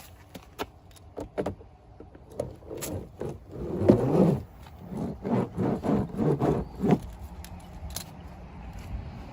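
Toy monster trucks being pushed and scraped through dirt and mud: a run of short scraping, rustling strokes, loudest about four to seven seconds in, with scattered small clicks.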